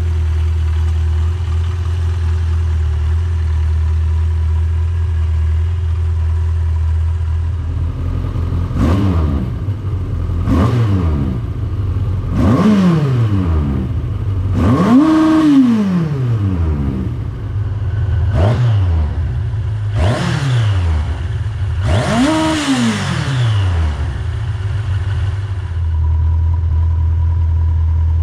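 Yamaha XJ900 S Diversion's air-cooled inline-four engine and exhaust idling steadily, then revved with seven throttle blips, each rising and falling back. The blip about halfway through goes highest and lasts longest, and the engine settles back to idle near the end.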